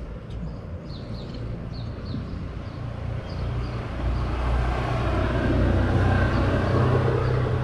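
Motor vehicle engine running on the street, a steady low hum that grows louder from about four seconds in as the vehicle comes closer.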